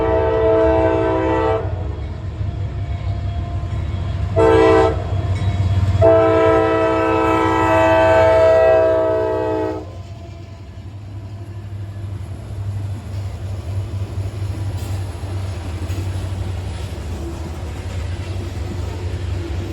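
Locomotive air horn on a westbound loaded CSX coal train: a long blast, a brief short one, then a long one held about four seconds. Under it, and on after the horn stops about halfway through, the steady low rumble of the diesel locomotives working past.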